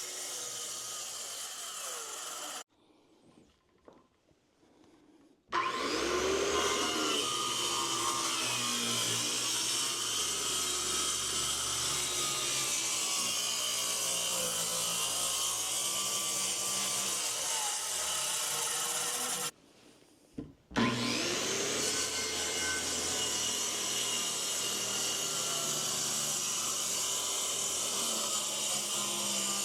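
Electric power saw cutting wood: the motor runs under load, stops about two and a half seconds in, spins up again with a rising whine about three seconds later, and stops and restarts once more around twenty seconds in.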